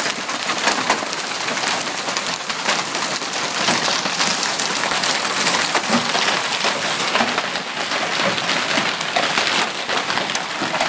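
Hailstorm pelting down with heavy rain: a dense, steady hiss packed with many sharp, separate hits.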